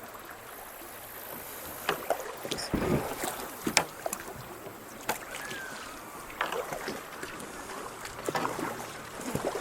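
Kayak paddling on a rocky creek: paddle strokes splashing in the water, with scattered sharp knocks every second or two.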